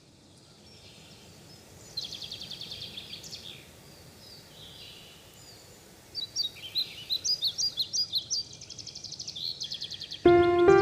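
Songbirds singing over a faint steady outdoor hiss: a fast trill about two seconds in, then a run of varied chirps and quick repeated notes from about six seconds. Music starts suddenly just before the end and is the loudest sound.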